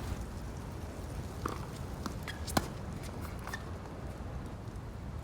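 Steady wind noise buffeting the microphone, with three sharp knocks about a second apart, the loudest near the middle.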